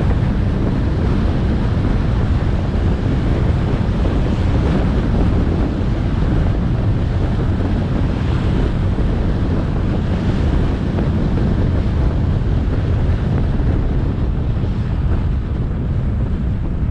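Steady wind rushing over the action camera's microphone on a moving motorbike, with the bike's engine and road noise underneath.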